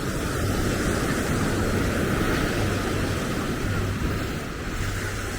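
Surf washing on the beach with wind buffeting the microphone: a steady wash of noise that swells about two seconds in, with short low rumbles from the wind.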